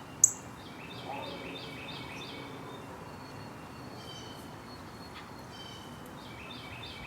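Several songbirds calling over steady outdoor background noise: a run of about a dozen quick repeated notes, given twice, along with some clear held whistled notes. A single sharp, very short high chirp about a quarter second in is the loudest sound.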